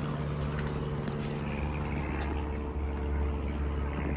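A steady low mechanical drone, engine-like, holding one pitch throughout, under a constant outdoor hiss.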